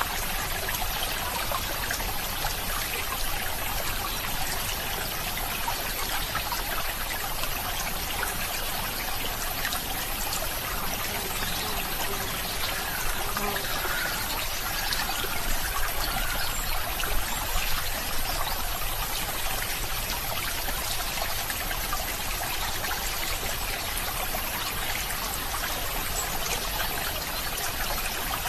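A small stream of running water trickling and burbling steadily, with a few slightly louder splashes around the middle.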